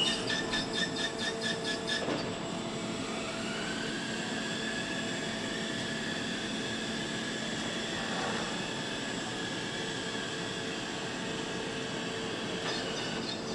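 Assembly-line machinery running steadily, with several hums over a hiss. A fast run of clicks sounds in the first two seconds, and a whine rises and then holds from about three seconds in.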